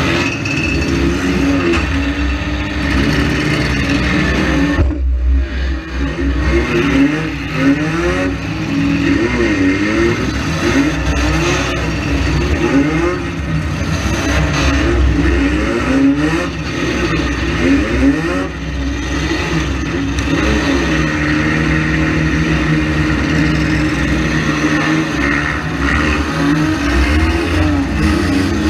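Front-wheel-drive demolition derby cars' engines revving hard and running continuously, the pitch repeatedly rising and falling, with scattered knocks and clatter. The sound drops out briefly about five seconds in.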